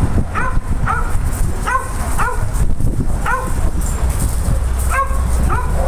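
A dog barking repeatedly in short, high barks, with a pause of over a second partway through.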